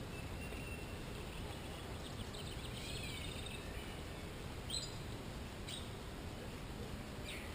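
Small songbird calling: scattered high chirps and short trills, with several sharp down-slurred chirps in the second half, over steady outdoor background noise.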